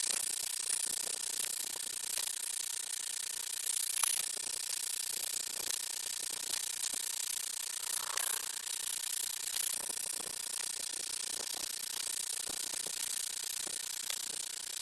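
Wood crackling with many small, fast, irregular ticks over a steady high hiss, as the charred board surface burns during shou sugi ban charring.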